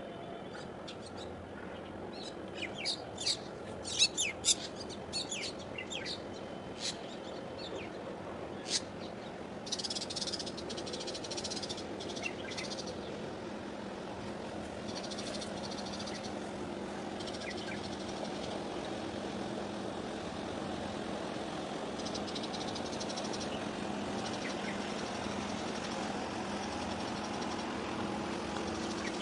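Birds chirping in short, sharp calls through the first nine seconds or so, over a steady low hum that grows a little louder in the second half.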